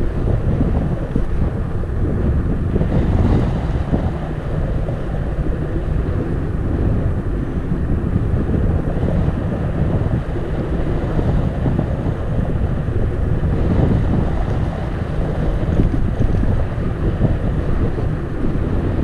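Wind buffeting the microphone of a camera riding along on a moving bicycle: a loud, steady, rumbling wind noise.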